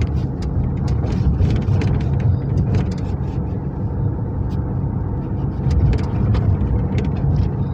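Steady low rumble of a police car's engine and tyres heard from inside the moving car, with many small clicks and rattles scattered through it.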